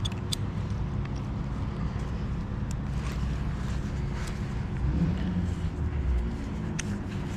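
An engine running steadily at a low pitch, with a few sharp clicks over it.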